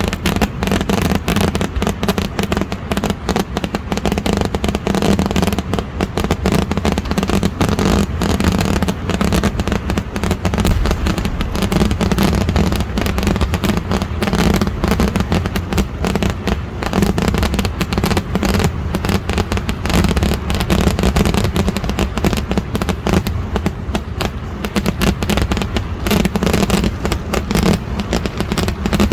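A continuous barrage of festival fireworks: firecrackers bursting in dense, rapid succession, with no break.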